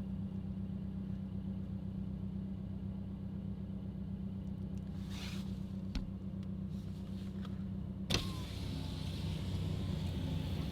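Subaru engine idling steadily, heard from inside the car. About eight seconds in there is a sharp click, then outside street noise comes in louder along with a faint whine, as a window or door opens.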